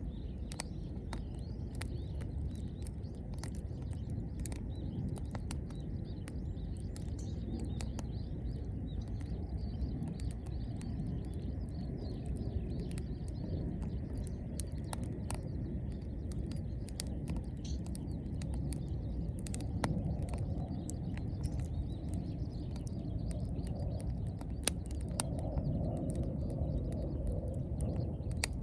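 Wood campfire burning with a steady low rumble of flame, scattered with many sharp crackles and pops.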